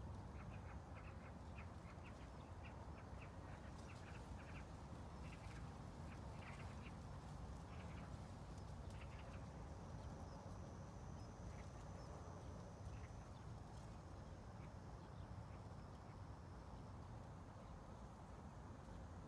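Quiet ambient background: a steady low rumble with many short, sharp sounds scattered through, thickest in the first half, and a faint high whine near the middle.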